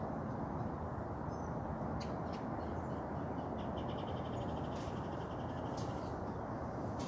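Outdoor morning ambience: a steady low background hum with scattered short high chirps from small birds, and a rapid even trill lasting about two seconds midway.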